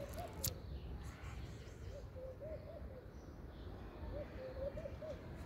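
A bird calling in short phrases of four or five low notes, each phrase about a second long, repeated every couple of seconds over a steady low background rumble. A single sharp click sounds about half a second in.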